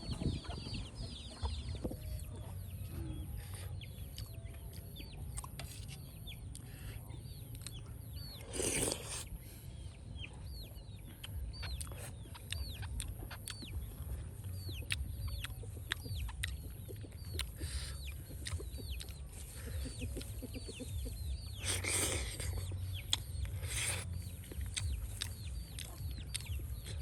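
Chickens heard in the background as many short, high, falling chirps repeating throughout, over a steady low rumble. A few brief rushes of noise come about nine seconds in and twice near the end.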